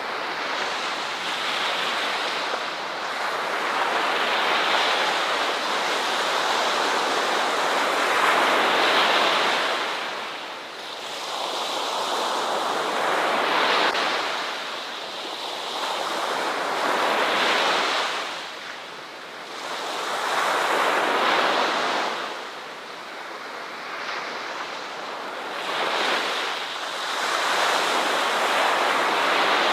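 Ocean surf: waves breaking and washing up a shore, the rush swelling and falling away about every four seconds.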